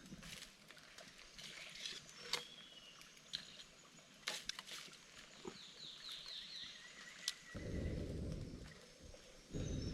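Outdoor forest ambience with bird calls, including a quick run of about six short chirps about six seconds in, along with scattered light clicks and knocks. Low rumbles come in near the end.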